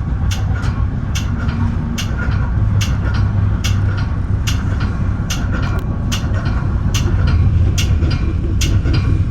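Metra bi-level commuter cab car rolling along the track, a steady low rumble with a string of sharp clicks about twice a second.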